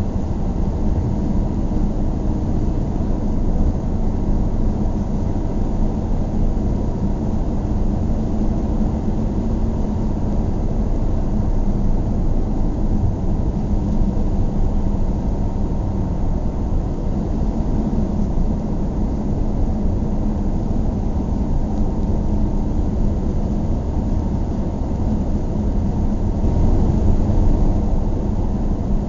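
Car driving at steady speed: a continuous low rumble of engine and tyre noise, swelling slightly near the end.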